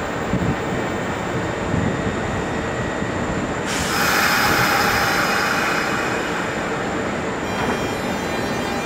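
Kintetsu electric commuter train at a station platform: steady rumble, then a sudden loud hiss about four seconds in that lasts a few seconds, giving way to several steady high tones near the end.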